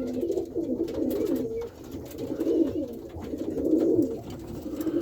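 Several racing pigeons cooing together in a loft, overlapping low burbling calls that go on without a break.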